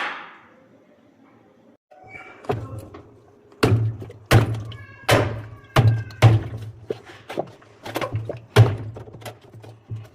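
Washing machine: a single sharp thunk at the start, then about two seconds in a low hum begins under a run of irregular knocks and thuds, roughly one or two a second.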